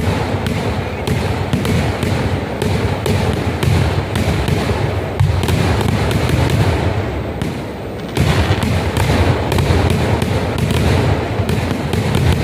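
Festival fireworks barrage: a dense, unbroken string of bangs and crackles over a heavy low rumble. It eases briefly a little past the middle, then picks up again.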